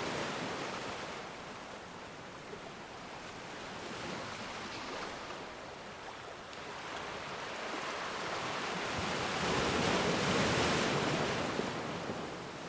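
Ocean waves washing ashore: a steady rushing surf that swells and ebbs, with the biggest wave breaking a little past the middle and fading near the end.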